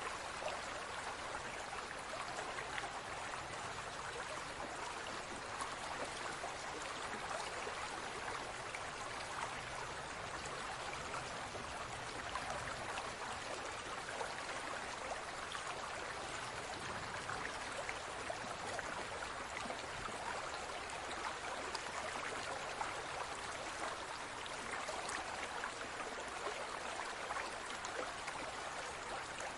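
Water in a large aquarium trickling and splashing steadily, full of tiny bubbling pops.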